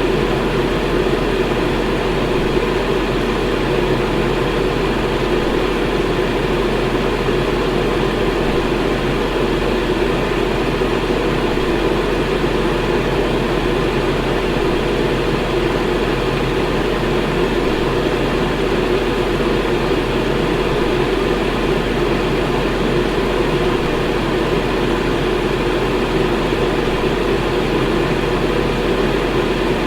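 Electric fan running steadily, a constant whooshing air noise strongest in the low-mid range, with a faint low hum.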